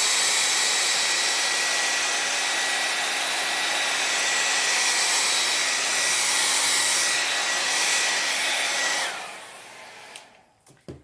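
Handheld hair dryer blowing steadily with a high whine, switched off about nine seconds in and spinning down.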